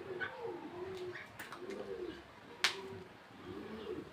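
A bird's low cooing calls, repeated about once a second, with a single sharp click a little past halfway.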